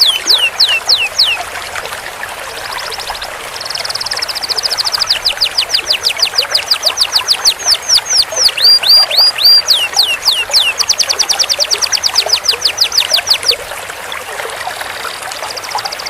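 Canary singing: runs of repeated down-slurred whistles alternating with long, fast rolled trills, the longest roll lasting about three seconds in the second half.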